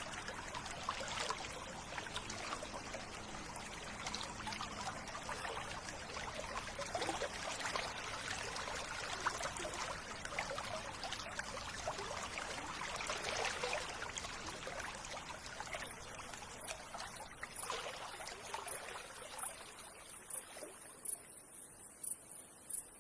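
Stream water trickling and splashing steadily, fading away near the end, as a high, evenly repeated chirp of about two pulses a second comes up.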